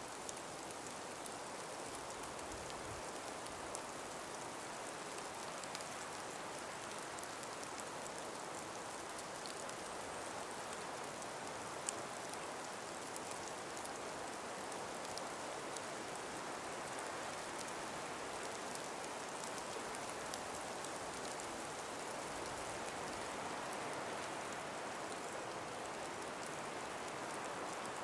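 A gentle, steady breeze through an ice- and snow-laden forest, with faint scattered ticks.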